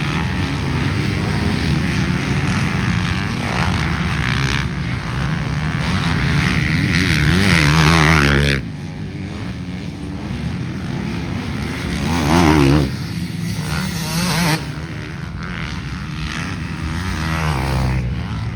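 Motocross motorcycles racing, their engines revving up and down as riders work the throttle. One bike peaks about eight seconds in and drops off abruptly; another rises and falls around twelve seconds in.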